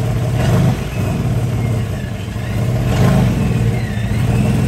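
Muscle car engine running with a low rumble as a Plymouth Barracuda pulls away at walking pace, the engine note swelling briefly twice under the throttle.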